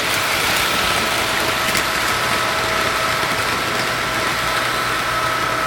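HO-scale Märklin model train running on its track: a steady mechanical whir and rolling noise with a steady high-pitched hum from the locomotive's drive.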